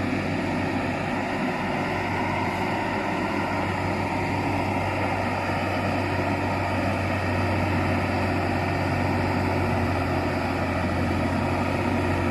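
Heavy truck's diesel engine running steadily, a low drone that grows slightly louder through the second half.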